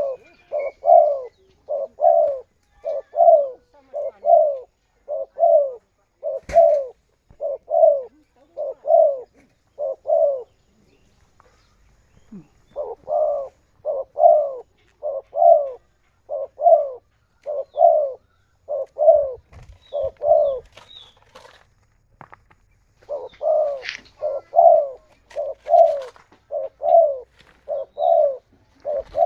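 Spotted dove (tekukur) cooing: a long run of short, evenly spaced coos, about one and a half a second, pausing twice before starting again.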